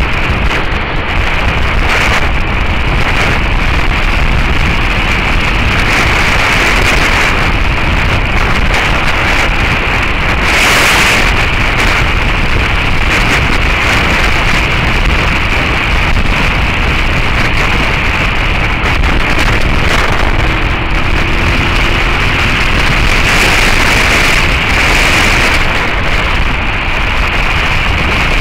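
Heavy, steady wind noise on the microphone of a camera on a moving Suzuki SV650S motorcycle. The bike's V-twin engine is buried beneath the wind.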